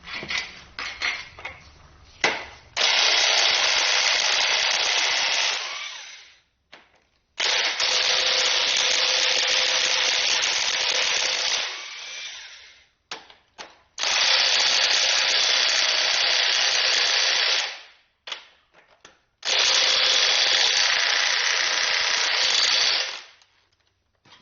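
Air impact wrench loosening the main bearing cap bolts on a Ford 351 Windsor block: four runs of a few seconds each, with short clicks and knocks of the socket going on before the first.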